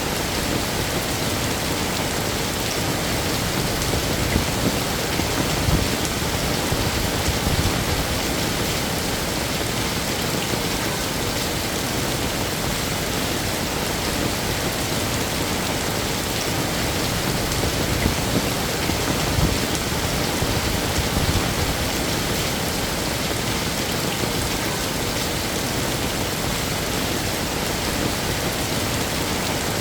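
Heavy rain falling steadily, with a few low swells in the rumble.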